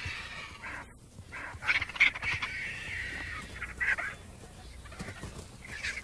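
Harsh bird calls in short bouts, about every second or two.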